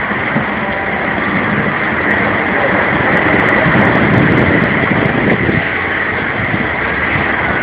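Strong storm wind rushing and buffeting the microphone, a steady roar that swells about halfway through.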